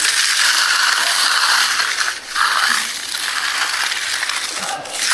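Steel hand trowel scraping across a setting concrete slab in long finishing strokes, with a short break about two seconds in between two strokes.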